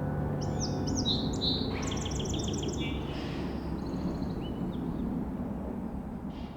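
Songbirds singing: several quick arched whistled notes and a fast trill in the first half, then softer chirps, over a steady low outdoor rumble that fades out near the end.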